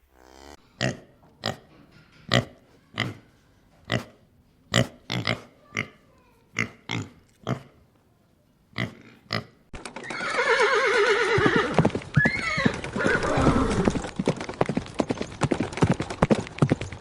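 Horse hooves clip-clopping in slow, uneven single strikes. From about ten seconds a louder, drawn-out horse whinny follows, its pitch sliding up and down.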